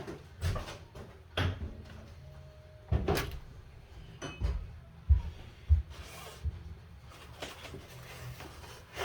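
A string of irregular knocks and clunks from hands working metal parts: the gas shock and outboard kicker bracket being handled and fitted.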